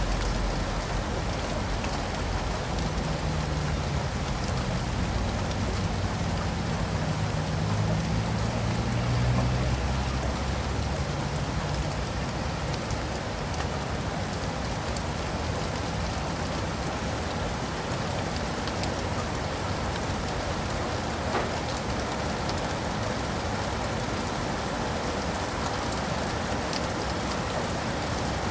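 Steady rain falling, an even hiss of drops. A low rumble swells and fades during roughly the first third.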